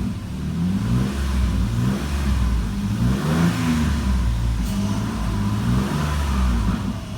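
2004 Jeep Liberty's 3.7-litre V6 being revved in repeated short blips, about one a second, its pitch rising and falling back each time. It revs up nice and smooth.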